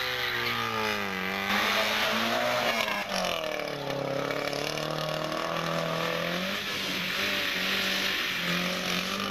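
Rally car engine under hard use, its pitch falling and rising as it revs and changes gear, with sudden jumps about one and a half and three seconds in.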